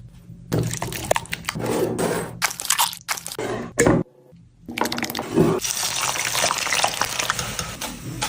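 Wet food-preparation sounds: liquid dripping and splashing with squishing and crunching, in short clips that cut off abruptly, with a brief near-silent gap about four seconds in.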